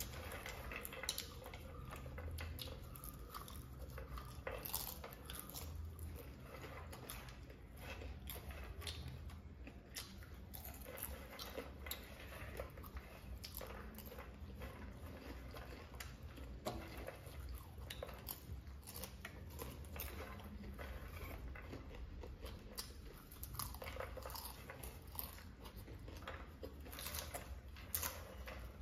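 Two people chewing popcorn with mouths full, a steady run of small irregular crunches.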